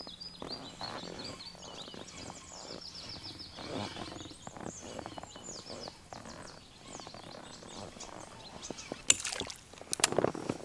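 Small birds chirping in quick, repeated high calls, with a couple of sharp knocks near the end.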